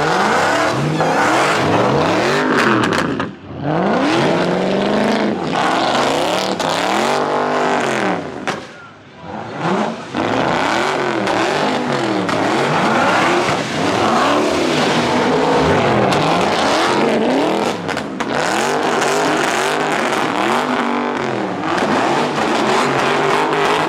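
Car engine revving up and down over and over at high rpm, with tyre noise, as a car spins in the pit. The engine note drops off briefly twice, a few seconds in and again around the middle.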